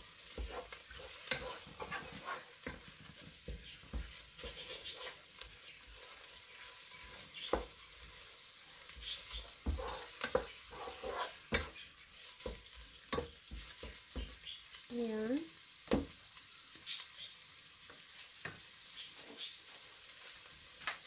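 Minced meat with onion and garlic sizzling in a pot, stirred with a wooden spatula that scrapes and knocks against the pan, giving a steady frying hiss under irregular clicks and taps.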